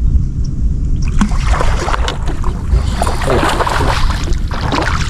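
Water splashing and lapping around a small fishing boat over a low rumble of wind on the microphone. The splashing starts about a second in.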